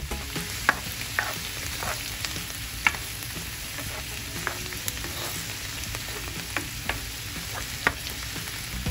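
Shrimp and diced onion sizzling in oil in a nonstick frying pan with a steady hiss, stirred with a plastic spoon that clicks and scrapes against the pan now and then.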